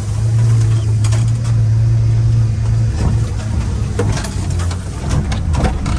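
Mini truck's small engine running with a steady low drone, joined about halfway by scattered clunks and rattles.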